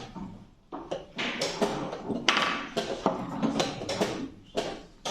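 Rapid, irregular wooden clacks and knocks of chess pieces being set down on a board and a chess clock being hit in blitz play, densest in the middle second or two.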